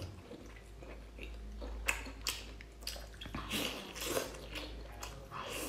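Close-up mouth sounds of a person chewing and biting abalone: irregular wet smacks and soft crunches.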